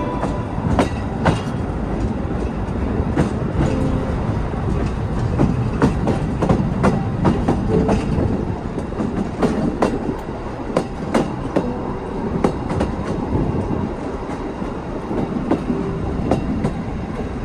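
The Baie de Somme tourist train running along the track: a steady rumble with sharp, irregular clicks and clacks from the wheels and carriages.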